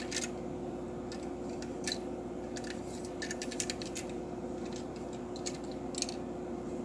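Scattered light clicks and taps of small objects being handled, in places several in quick succession, over a steady electrical hum.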